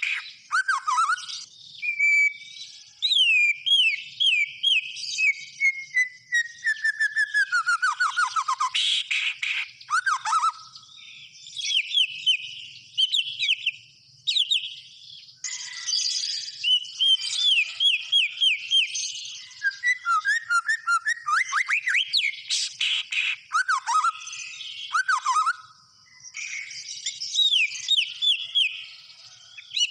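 White-rumped shama (murai batu) singing a long, varied song of clear whistles, quick rising and falling notes and rapid trills, broken by short pauses. About six seconds in, a run of notes slides steadily down in pitch.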